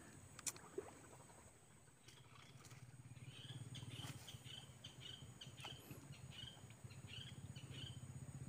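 Faint bird chirping, a short call repeated about twice a second, over a low, steady hum.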